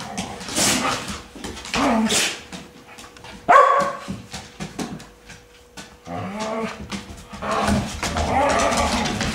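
Pet dogs playing together and barking, with the loudest, sharpest bark about three and a half seconds in.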